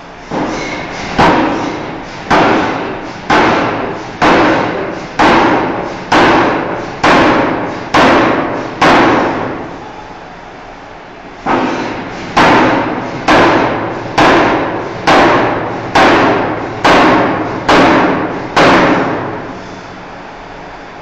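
Forging hammer striking a steel bar in steady blows about one a second, each hit ringing briefly as it fades: about ten blows, a pause of a couple of seconds, then about nine more.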